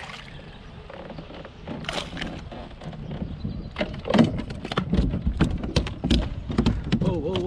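A rapid run of clicks and knocks with a few heavy low thumps, starting about four seconds in: gear and a hooked fish bumping against a kayak.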